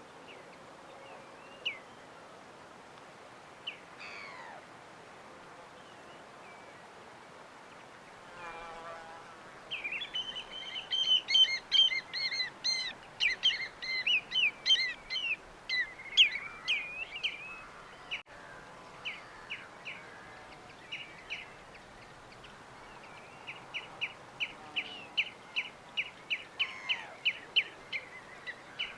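Birds chirping over a faint steady wash of surf. There are scattered calls at first, then a dense flurry of overlapping chirps from about ten seconds in, and near the end a run of quick repeated chirps, about three a second.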